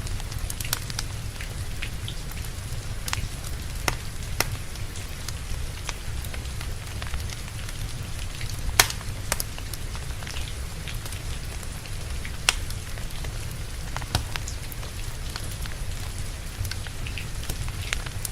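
Steady rain with a low rumble underneath, and the sharp, irregular crackles and pops of a burning wood fire. The loudest pop comes about nine seconds in.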